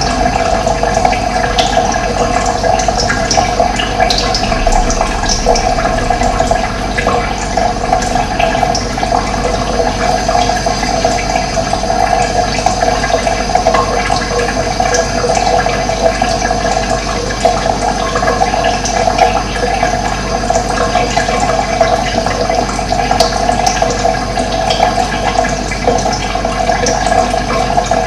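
Steady rush of running water, even and unbroken, with a few faint short bird chirps above it.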